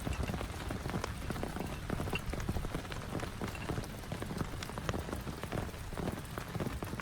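Heavy rain falling, with many separate drops striking a nearby surface in quick, irregular taps over a steady rush.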